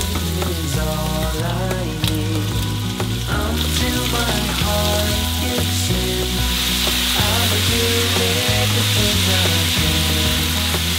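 Diced pork and vegetables sizzling in rendered pork fat in a wok, stirred with a silicone spatula; the sizzle grows stronger about halfway through. Background music with a bass line plays along.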